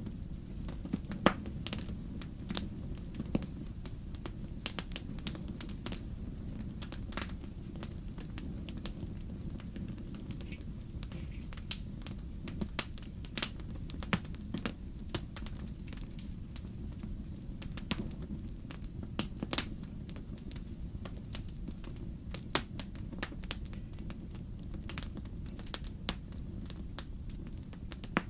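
Wood fire burning in a fireplace: a steady low rumble with irregular crackles and occasional sharp pops of the burning logs.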